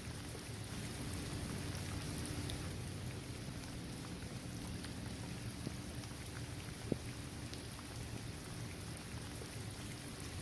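Steady rain falling on a hard court surface, trees and grass, with scattered individual drop ticks and one sharper tap about seven seconds in.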